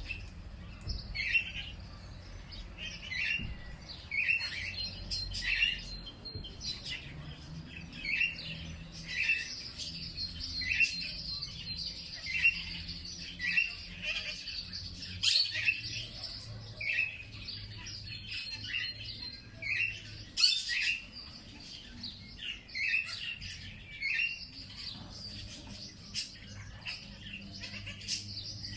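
Songbirds chirping: one bird repeats a short call roughly once a second while others chirp higher and more continuously behind it. A couple of sharp clicks come about midway.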